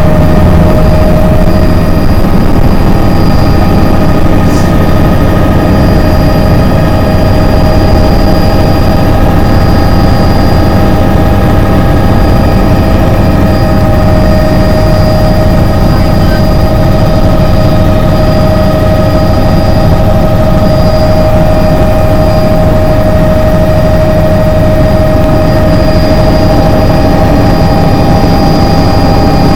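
Helicopter running at steady power: a dense low rumble of engine and rotor with a steady high whine over it, neither rising nor falling.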